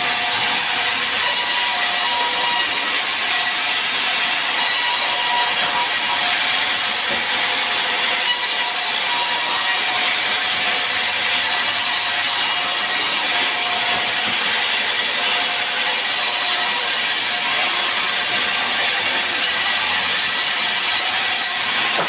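Sawmill saw cutting sengon wood: a steady, hissing machine noise without a break.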